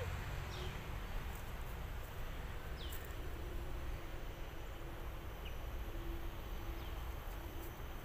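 Open-air ambience: a steady low rumble with a few short, falling bird chirps, about four, spread through.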